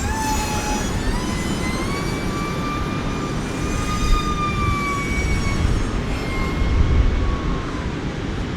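TBS Chupito flying wing's electric motor and propeller whining in flight, the pitch drifting up and then sinking near the end, over steady wind rumble on the microphone.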